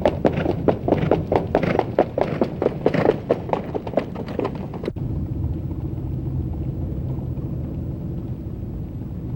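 Hoofbeats of harness horses, a quick run of sharp strokes at about four a second. About halfway through they cut off suddenly and give way to a steady low engine drone.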